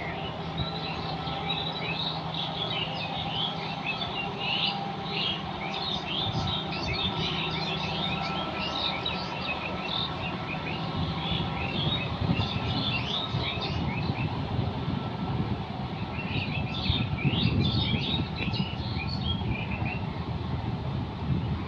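Many birds chirping in quick, overlapping calls above the steady drone of a John Deere 5210 tractor's diesel engine; the chirping pauses briefly about two-thirds of the way through, then resumes.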